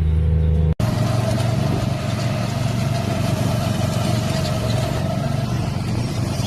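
Music cuts off abruptly under a second in, then a car engine runs steadily, a low rumble with a steady tone over it.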